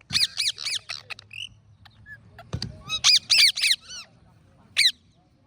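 Parrot calling in quick runs of loud, rising-and-falling calls: four or five at the start, another five or so about three seconds in, and a single call near the end.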